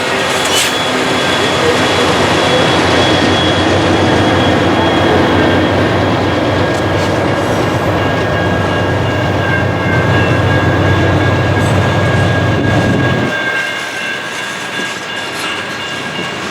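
CN freight train rolling past, a steady rumble and rattle of wheels on rail with a thin steady tone above it. The low rumble drops off suddenly about thirteen seconds in.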